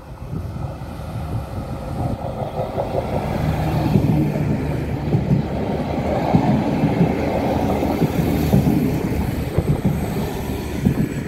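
Diesel passenger train passing close by: engine running and wheels rumbling on the track, with scattered knocks. It grows louder over the first few seconds as the train approaches, then stays loud as the cars go past.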